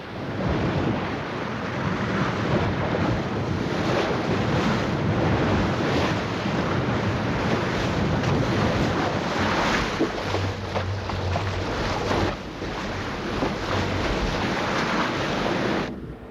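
Wind and sea rushing past a ship under way in a strong breeze, waves washing along the hull and gusts buffeting the microphone. The sound cuts off abruptly near the end.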